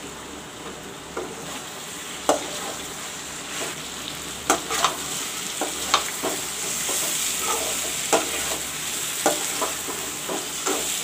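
Chicken pieces and onions sizzling in hot oil in a metal wok-shaped pan while a metal spatula stirs them, knocking and scraping against the pan at irregular intervals. The sizzle grows louder about halfway through as the spice-coated chicken is turned into the oil.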